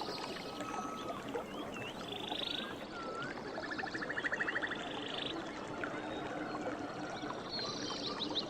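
River water running steadily, with birds calling over it: many short rising and falling chirps and several rapid trills.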